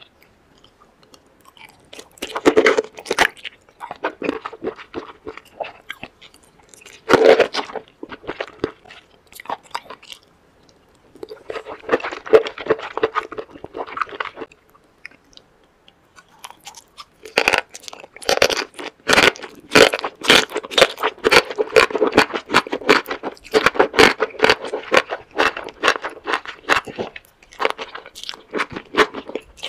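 Close-miked chewing of sauce-coated enoki and king oyster mushrooms: rapid clicky crunches and mastication in short bouts, then near-continuous through the second half.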